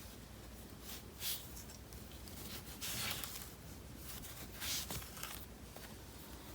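A damp microfiber cloth wiping a car's surface, a few soft swishing strokes.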